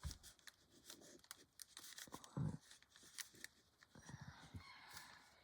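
Faint scratching and light ticks of a coloured pencil working on paper, with a thump about two and a half seconds in.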